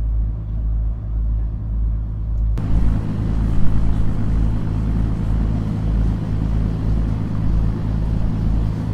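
Steady low drone of a river cruise boat's engine. About two and a half seconds in, a broad rushing hiss suddenly joins it and carries on over the hum.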